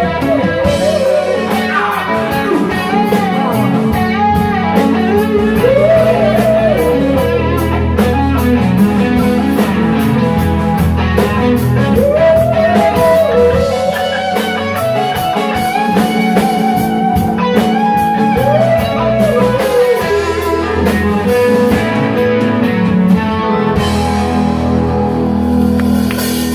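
A live rock band plays an instrumental passage: a lead guitar line weaving over bass and a drum kit, loud and steady.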